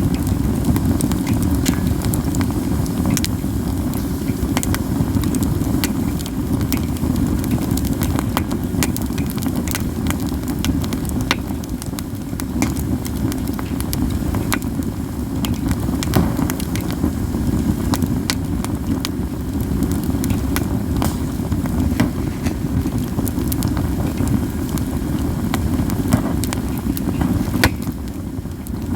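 Katsura wood campfire burning, with many sharp crackles and pops over a steady low rumble.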